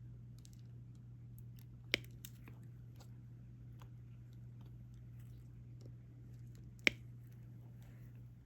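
Light scattered clicks and taps of a diamond-painting stylus picking up resin drills and pressing them onto the sticky canvas, with two sharper clicks about two seconds in and near seven seconds, over a steady low hum.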